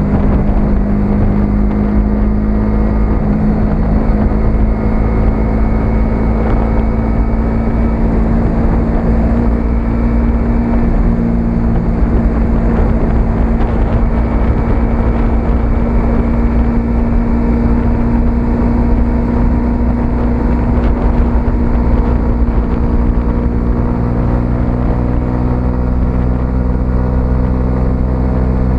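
A 125cc single-cylinder motorcycle engine running at a steady cruising pace, its note shifting slightly a few times, over low wind rumble on the microphone.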